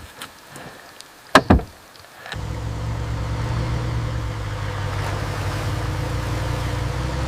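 Two sharp knocks in quick succession, then a vehicle's steady low running rumble starts and holds.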